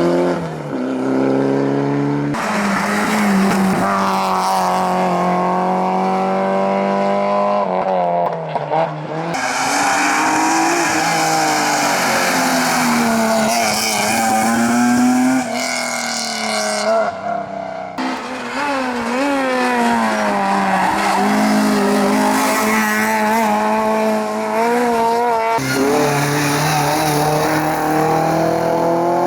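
Competition car engines revving hard up a hillclimb, pitch climbing through each gear and dropping at the shifts, in several cut-together passes by different cars. Tyre noise is mixed in.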